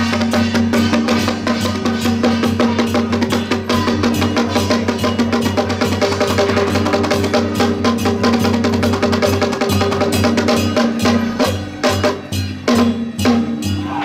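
Temple procession percussion: drums and cymbals beaten in a fast, dense roll over a steady low tone. About eleven seconds in, the roll breaks into separate, spaced strokes.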